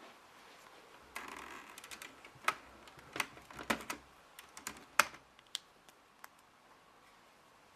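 Lego plastic parts clicking and rattling as the brick rifle's mechanism is worked by hand: a brief rattle, then a string of irregular sharp clicks that stop about six seconds in.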